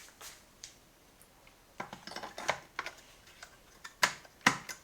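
Scattered light clicks and taps of plastic parts being handled on a cordless coffee machine: a couple near the start, a cluster around two seconds in, and a few sharper knocks near the end.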